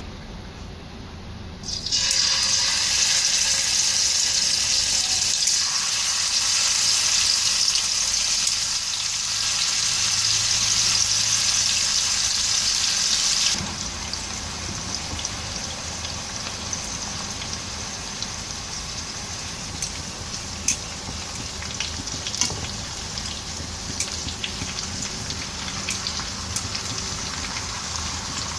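Chicken tikka pieces sizzling in hot oil in a frying pan: a loud sizzle starts suddenly about two seconds in, then drops to a quieter, steady sizzle about fourteen seconds in, with scattered sharp pops of spitting oil.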